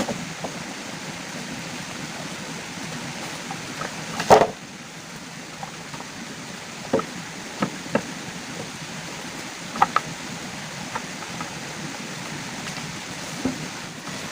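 Steady rushing water noise, with a scattered few sharp knocks and clicks; the loudest knock comes a little over four seconds in.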